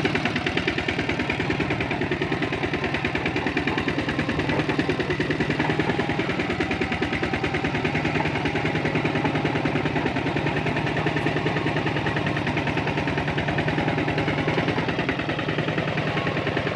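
Tractor engine running steadily with a rapid, even chugging.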